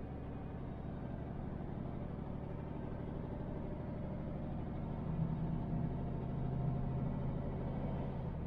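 MAN TGX truck's diesel engine running under way, with a steady low hum and road noise. The engine hum grows louder about five seconds in.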